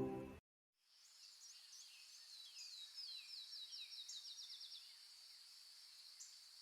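Faint nature recording: a bird sings a run of quick, descending chirps that speed up, over a steady high insect drone. Soft meditation music fades out at the very start.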